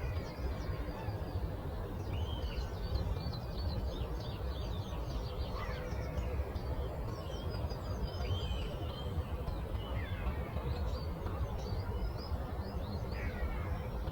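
Several birds chirping and calling in a dawn chorus, with short high chirps throughout and a few louder gliding calls, over a steady low rumble.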